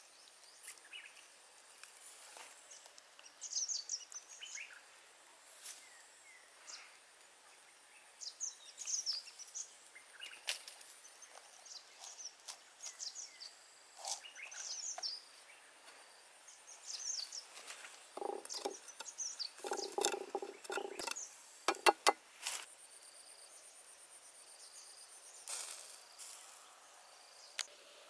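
Forest ambience with short, high chirped calls repeating every second or two, typical of a bird, over a faint steady insect drone. About two-thirds of the way through there is a cluster of sharp clicks and knocks.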